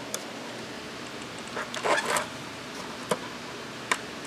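A few sharp clicks and light taps from handling a die-cast metal model truck, its parts being opened, with a small cluster of them about halfway through.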